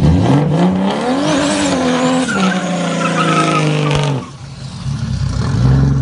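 Turbocharged Nissan RB straight-six engine revving up hard under a burnout attempt, with tire squeal; the engine note climbs over the first second and a half, holds high, then drops away suddenly about four seconds in as the throttle is let off.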